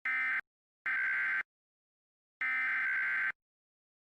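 Emergency Alert System SAME header: three short bursts of buzzy two-tone digital data with brief silent gaps between them. The bursts encode a National Weather Service tornado warning ahead of the synthesized voice message.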